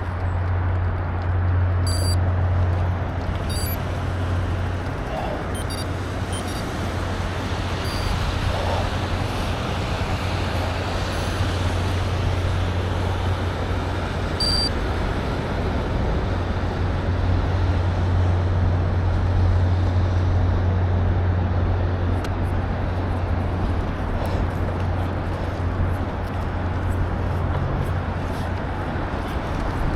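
Steady wind and rolling noise picked up by a camera riding along on a bicycle, with a deep constant rumble underneath and a few faint light clicks in the first half.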